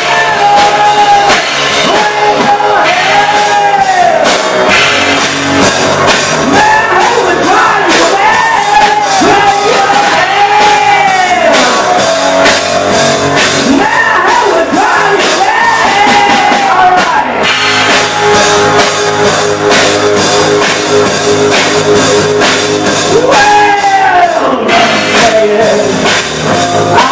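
Rock music playing loudly, with a lead melody that arches up and down in pitch over a full band.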